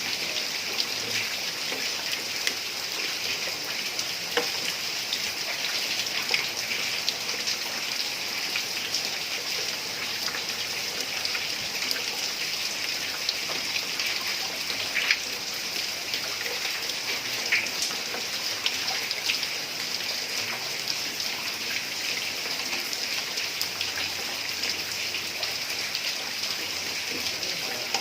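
Heavy rain falling on a tiled roof: a steady hiss peppered with countless small drop impacts.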